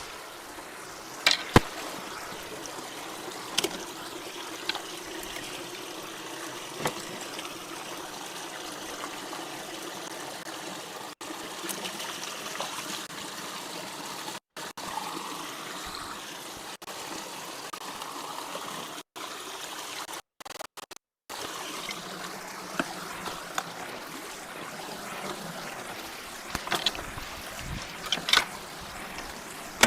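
Creek water trickling and running at a partly blocked culvert, a steady wash of water noise. A few short sharp knocks come near the start and several more near the end, and the sound cuts out briefly a few times midway.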